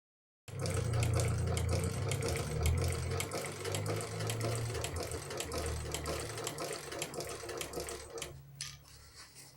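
A motor-driven shoe-repair machine running with a low hum and rapid clicking, starting half a second in and stopping shortly before the end.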